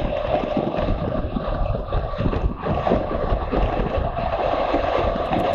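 Wind rushing over a camera microphone during a motorcycle ride, with a steady low rumble of the bike and road beneath.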